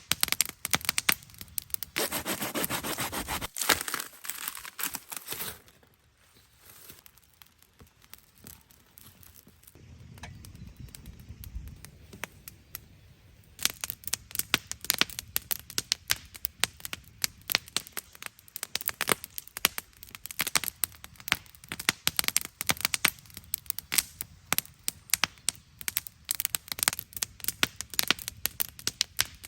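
Campfire wood crackling, with dense, irregular sharp pops. The fire goes much quieter for several seconds in the middle, then the popping picks up again.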